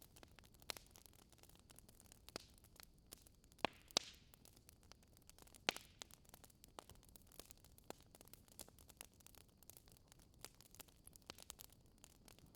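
Fireplace fire crackling: faint, irregular small snaps and pops over a soft hiss, with a few louder pops around four and six seconds in.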